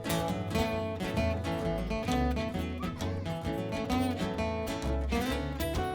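A band playing an instrumental break of a country-style song, led by a strummed acoustic guitar over a steady bass line.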